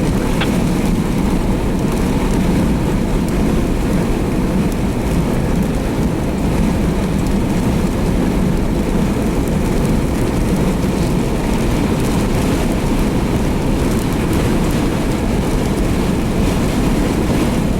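Steady, loud rushing noise inside a car driving through a storm: road and engine noise mixed with wind and rain against the body.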